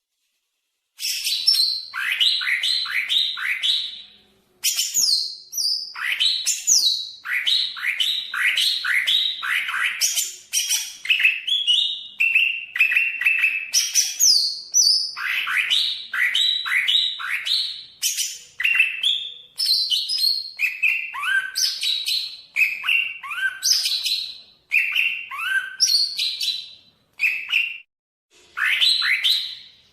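Cucak ijo (green leafbird) singing a fast, varied song of short whistled notes, many sliding downward, in rapid phrases with brief pauses.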